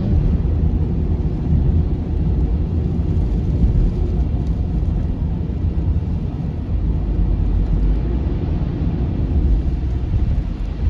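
Steady low rumble of a car driving on a highway, heard from inside the cabin: tyre and engine road noise.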